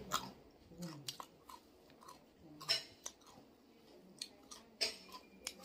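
Close-up mouth sounds of people eating by hand: chewing with scattered sharp, wet lip smacks and clicks at irregular intervals.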